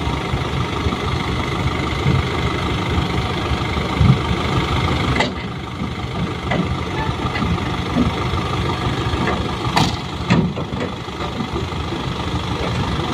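Diesel dump truck engine idling steadily, with a few short knocks about five seconds in and again near ten seconds.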